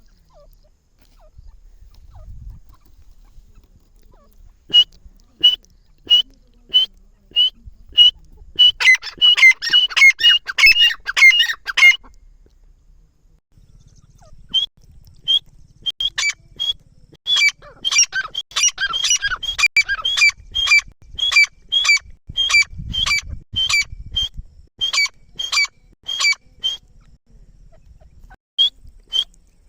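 Grey francolin (teetar) calling: a run of sharp, high single notes at a steady pace that builds into fast, ringing repeated phrases. This happens in two bouts, with a pause of about two seconds between them.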